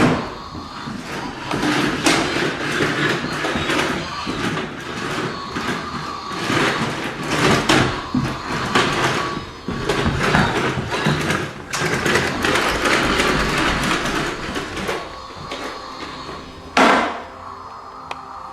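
Vacuum cleaner being pushed about over the floor, its steady motor hum under irregular clattering and bumping, with one loud knock near the end.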